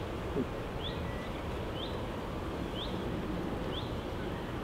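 Steady hum of a honeybee colony over an open hive. A bird repeats a short rising call about once a second.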